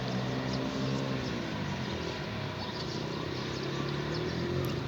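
A motor vehicle's engine humming steadily, its pitch dropping about one to two seconds in as it passes, with many short high chirps throughout.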